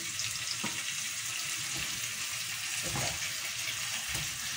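Raw chicken pieces sizzling in hot oil in a frying pan with sautéed garlic, ginger and onion: a steady hiss, with a few soft knocks as more pieces go into the pan.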